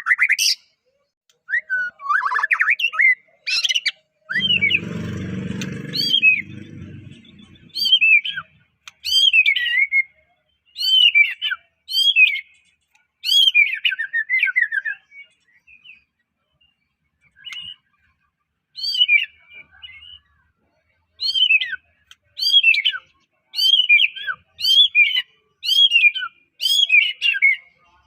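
White-rumped shama (murai batu) singing: short, clear whistled phrases that sweep mostly downward in pitch, repeated about once a second with short pauses between. About four seconds in, a low noisy sound lasts two to three seconds under the song.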